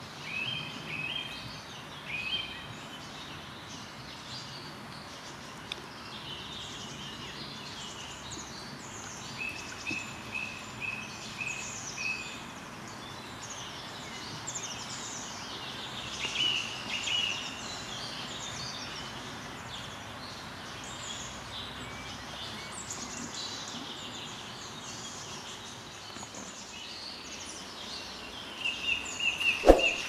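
Several wild birds singing and calling over a steady outdoor background hiss: short sweeping notes and trills, with a run of quick repeated notes partway through. A sharp click near the end.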